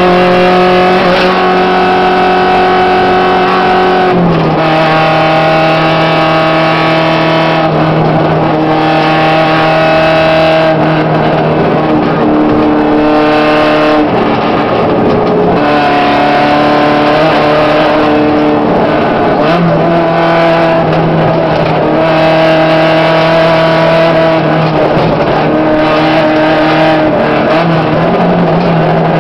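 Volkswagen Gol rally car's engine running hard, heard from inside the caged cabin. Its note holds steady, then steps down or up in pitch several times as it changes gear, over a constant rush of road noise.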